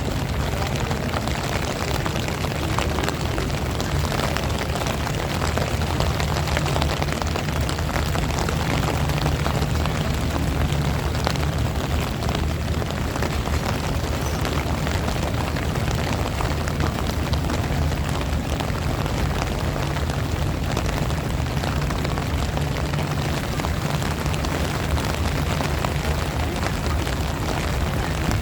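Strong wind buffeting the microphone with a steady low rumble, over the hiss and patter of heavy rain.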